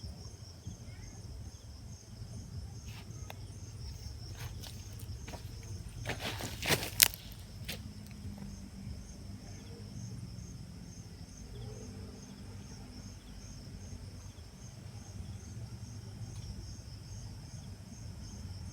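Insects trilling steadily in a fast, evenly pulsing chorus over low outdoor rumble, with a few light clicks and one sharp crack about seven seconds in.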